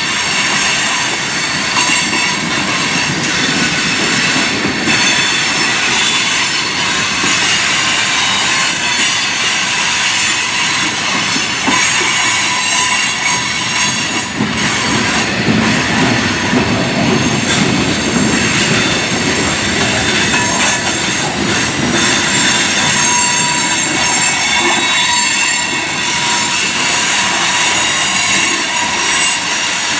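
Freight train cars rolling past: steel wheels running on the rails with a steady high-pitched squeal of wheel flanges against the rail, over a continuous low rumble and an occasional clunk from the rail joints.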